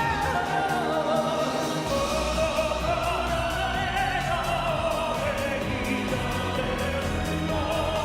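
A male singer in a pop-operatic style holding long, wavering sung notes over instrumental accompaniment.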